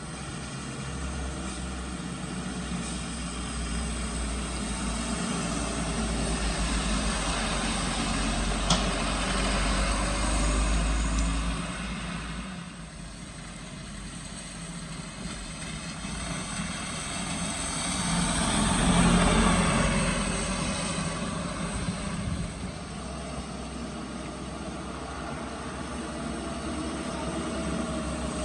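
Road vehicle engines running as traffic passes one after another through a bend, with a deep steady hum. Two vehicles come loudest, about ten seconds in and again just before twenty seconds.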